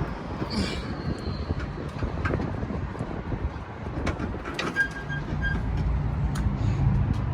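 Low rumble with metal clanks and rattles as a semi truck's hood is tilted open. A short run of electronic beeps comes about five seconds in, and a steadier low hum builds after it.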